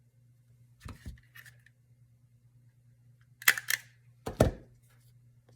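Small stapler clacking shut: a softer knock about a second in, then two loud, sharp clacks about a second apart.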